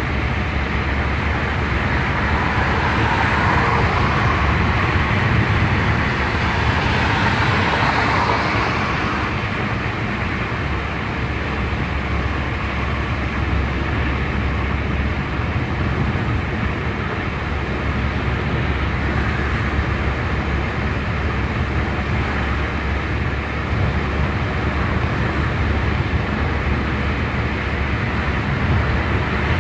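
Car driving along a road: steady engine and tyre noise, with a louder swell of rushing noise from about three to nine seconds in.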